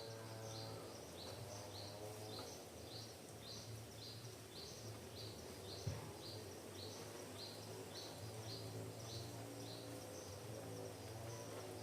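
A small bird repeating one short, high chirp about twice a second over a steady low hum, with a single sharp knock about six seconds in.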